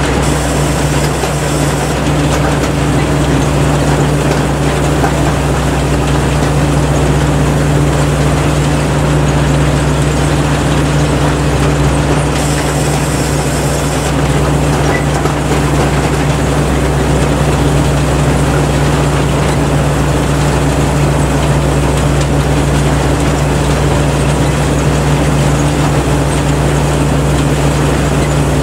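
Kaset Pattana combine harvester running steadily: a loud, unchanging engine drone with a deep low hum under the rattle of its machinery.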